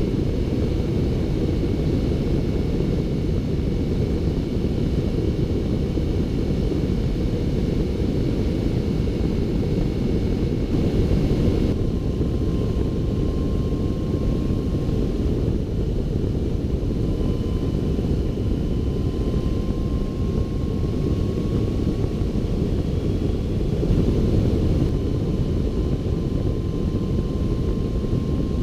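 Motorcycle riding at steady road speed: a constant low rush of wind and engine noise, with a faint thin whine that comes in about twelve seconds in.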